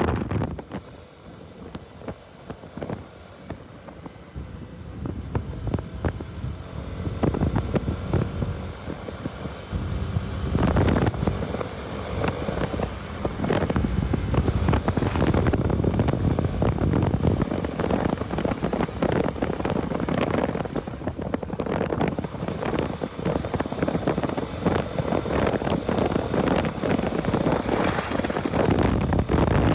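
Riding a Bajaj Pulsar RS200: its single-cylinder engine runs under wind rushing over the microphone. It is quieter for the first few seconds, then grows louder and gustier from about six seconds in.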